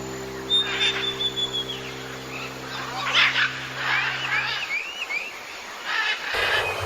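Wild birds chirping and calling, with short rising whistled notes, over a low held musical drone that fades out about two-thirds of the way through. Near the end the background changes abruptly to another outdoor ambience.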